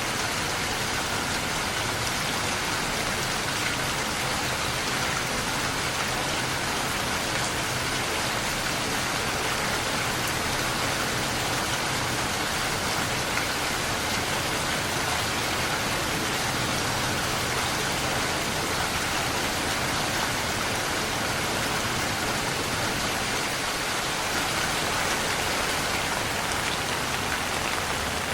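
Steady rain falling on a surface, an even, unbroken hiss with dense patter of drops.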